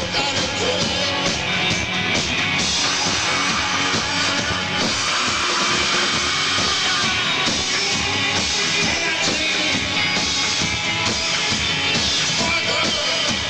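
Live rock band playing loudly, with electric guitar and drums, recorded from the audience.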